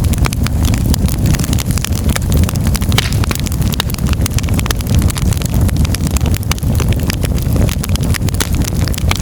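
Firewood burning in a fireplace: many irregular crackles and pops over a steady low rumble of the flames.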